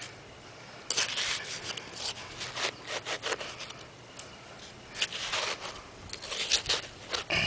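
Digging tool scraping and scooping through compacted sand and dirt in a dig hole, in several separate strokes.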